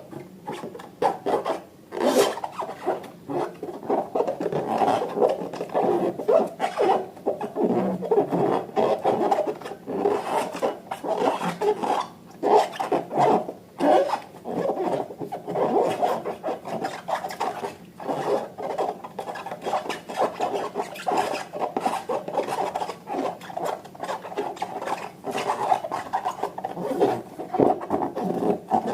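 Slime being stirred and kneaded: a continuous sticky rubbing and squelching with many small clicks and pops.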